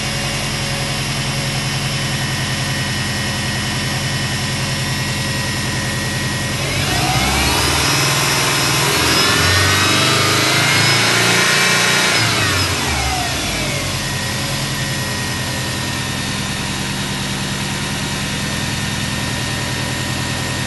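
Subaru EJ205 turbocharged flat-four idling steadily, then revved about seven seconds in, held high for a few seconds and let fall back to idle.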